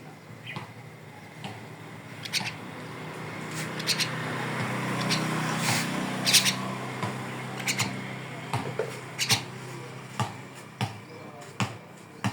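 A jalak (starling) giving short, sharp, harsh calls, one at a time at irregular intervals. A low hum swells up in the middle and fades away under the calls.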